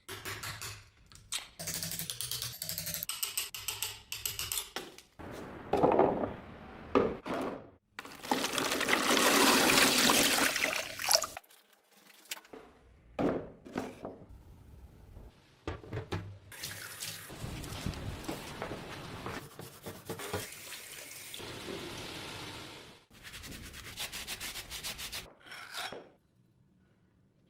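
A rusty axe head being scrubbed and rinsed, heard as short bursts of rubbing and running water that start and stop abruptly, with a longer, louder stretch of rushing water about a third of the way in.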